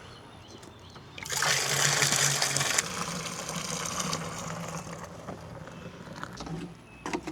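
Liquid poured from a jug into a mixing tank: a loud rushing gush starting about a second in, easing after a second and a half into a softer pour that tapers off.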